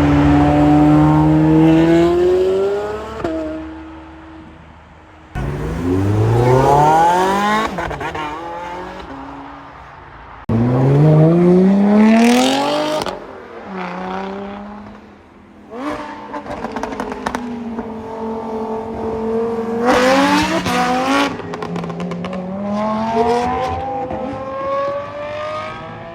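Performance car engines accelerating hard at full throttle: the engine note climbs steeply in pitch as each revs out and drops back at the upshifts. Abrupt jumps about 5, 10 and 16 seconds in mark cuts from one car to the next.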